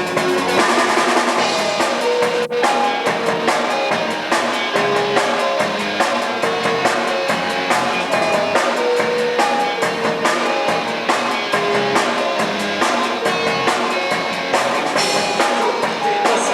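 Live band music, an instrumental passage with a drum kit keeping a steady beat under held melody notes.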